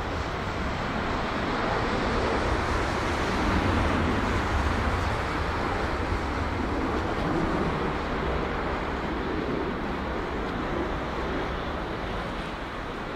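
Jet roar from a Boeing 777-300ER's GE90 turbofans at takeoff power, a loud steady rush with a low hum underneath, swelling a few seconds in and easing slightly toward the end.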